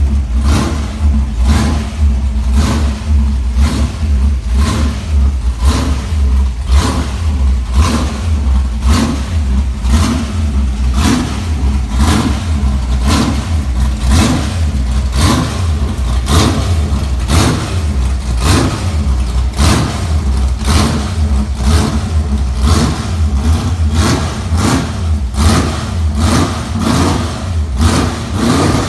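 Tunnel-rammed 440 big-block V8 of a 1965 Dodge Coronet running on a cold start, a loud, heavy rumble that pulses unevenly about one to two times a second.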